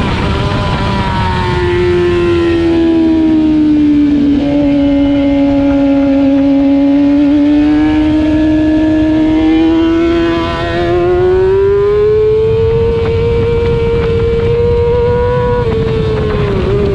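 Racing motorcycle engine heard onboard at race pace, its pitch dropping about a second in, holding low and slowly rising, then climbing for a few seconds before falling again near the end as the rider works the throttle through the corners.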